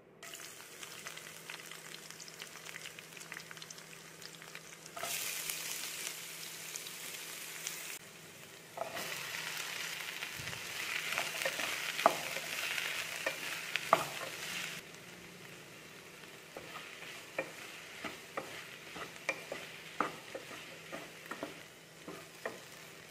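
Hot oil sizzling in a non-stick pan as chopped okra, onion and garlic fry in it, stirred with a wooden spatula. The sizzle gets louder for a few seconds twice, then settles to a quieter fry with frequent sharp clicks of the spatula against the pan.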